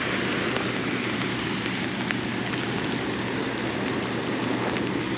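Steady rain falling, an even hiss with a few raindrops ticking sharply against the gear.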